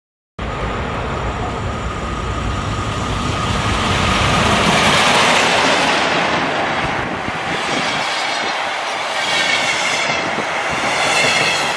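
Locomotive-hauled passenger train with double-deck coaches passing close at speed: a loud, continuous rush of wheels on rail that begins abruptly about half a second in and swells as the locomotive and first coaches go by.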